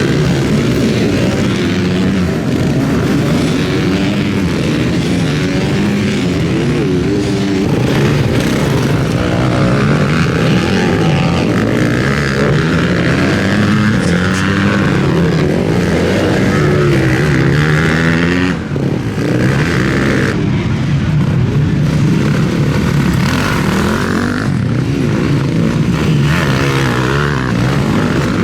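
Several motocross bikes racing on track, their engines revving up and down through gear changes and overlapping one another in a continuous loud snarl.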